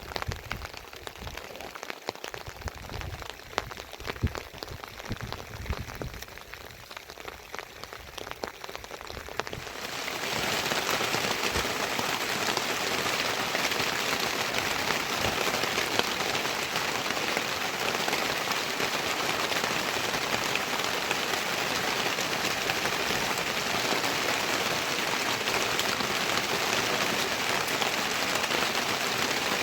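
Rain falling, with scattered drips and taps at first. About ten seconds in it turns abruptly into a steady, louder downpour hiss.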